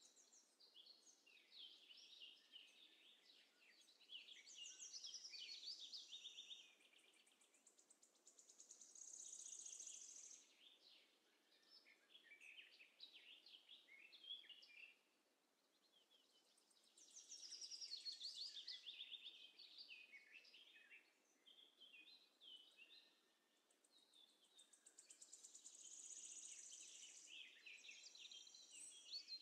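Faint birdsong: bouts of high chirps and quick trilled phrases, each a few seconds long, with short quieter gaps between them.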